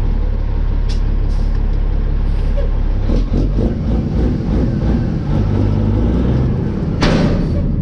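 Dump truck's engine running steadily while the load is spread, with scattered knocks and clatter in the first half. A short rush of noise comes near the end.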